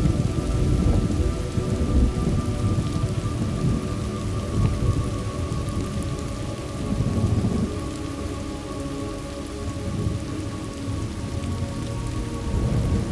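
Thunderstorm: steady rain falling with low rolling thunder rumbling, heaviest in the first few seconds and again about seven seconds in.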